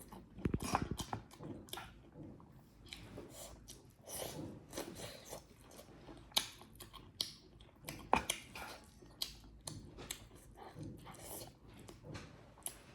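Close-miked chewing and mouth sounds of someone eating rice and chicken curry: irregular wet smacks and short clicks, with a few louder smacks about half a second in and around eight seconds in.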